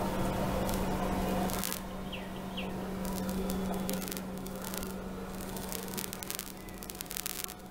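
Small quadcopter drone's motors humming steadily while it flies. Two short descending chirps come a couple of seconds in, and a few light clicks are scattered through.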